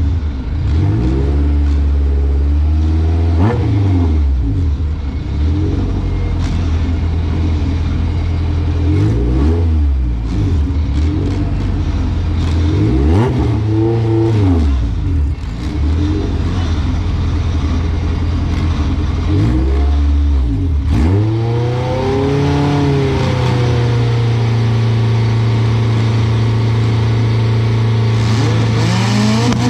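Car engine idling loudly and being revved again and again, each rev rising and falling in pitch. About 21 s in, the idle settles onto a steadier, slightly higher note with lighter revs over it.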